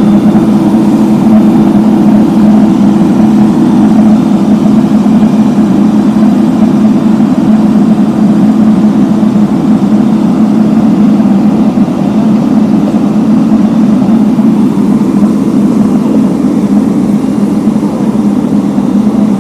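Heavy road-construction machinery running steadily, a loud low engine drone that eases off a little over the last few seconds.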